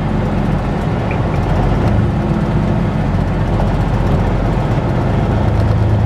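Semi-truck's diesel engine running at low speed while the rig creeps through a fuel island, a steady low drone.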